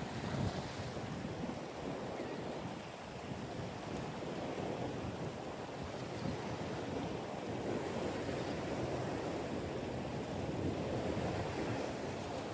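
Ocean surf washing and wind buffeting the microphone: a steady rushing noise with uneven low gusts throughout.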